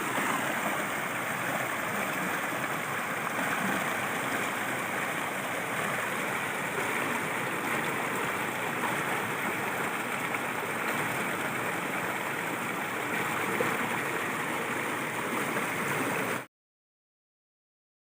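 Stream water rushing steadily at a water crossing, stopping dead about sixteen seconds in.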